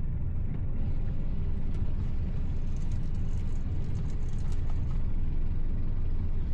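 Tow boat's engine running steadily at low speed while manoeuvring alongside, a constant low rumble.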